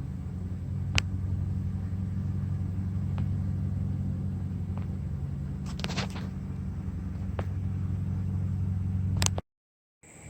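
An engine running steadily at idle with a low, even rumble, with a few sharp clicks over it; it cuts off suddenly shortly before the end.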